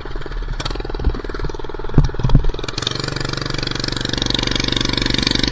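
Minibike's small engine running under way, with a couple of short knocks about two seconds in, then revving up and getting louder; the rider reckons it needs a new clutch.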